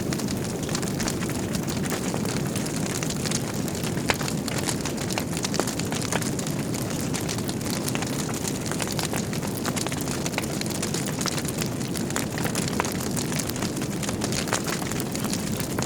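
Wood fire burning in a fireplace: a steady low roar of flames with constant crackling and snapping from the burning logs, a few louder pops along the way.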